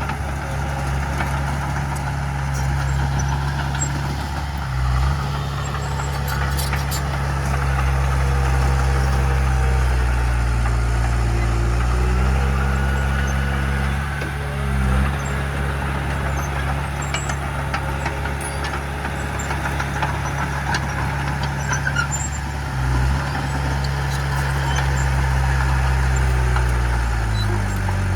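Heavy diesel engine of earthmoving machinery running steadily, its revs climbing for a few seconds about halfway through and easing again, with brief dips in pitch a few times.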